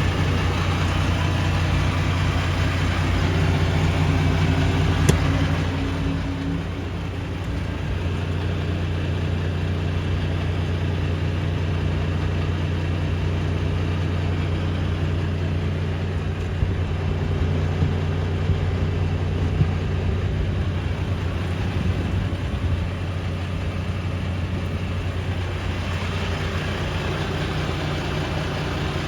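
Volvo FL280 truck's diesel engine idling steadily. It is a little louder, with an extra higher tone, for the first six seconds, and there is a single click about five seconds in.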